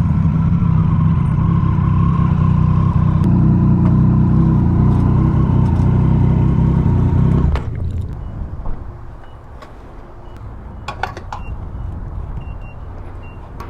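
Triumph Street Triple RS inline-triple motorcycle engine running steadily at speed with wind rush on the helmet mic. About seven and a half seconds in, the sound drops off suddenly to a much quieter, uneven engine and road sound, with a few clicks.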